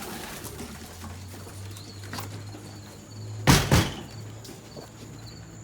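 Two sharp knocks close together, about three and a half seconds in, over a low steady hum; a faint, evenly repeating high chirping of crickets starts after the knocks.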